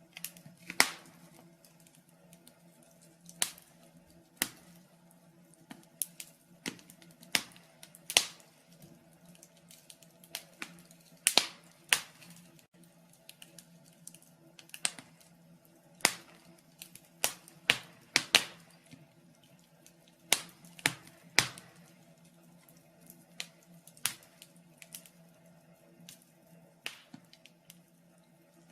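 Wood fire in a fireplace crackling: irregular sharp pops and snaps, often a second or two apart and some much louder than others, over a faint steady low hum.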